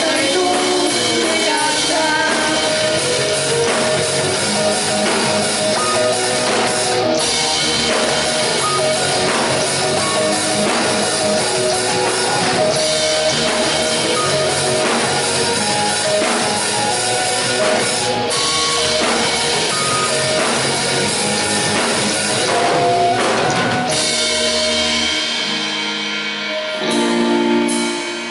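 Rock band playing an instrumental passage on drum kit and electric guitars. About 24 seconds in, the drums and bass drop out, leaving guitar notes alone.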